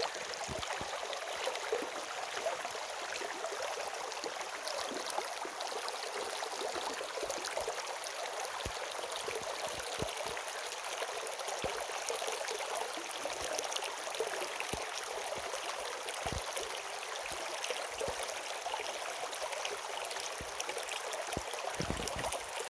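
Steady rush of running water with a fine crackle, without change or pause.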